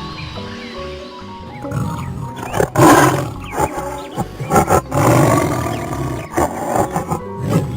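Several loud, rough animal calls over background music, the loudest about three seconds in and again around five seconds.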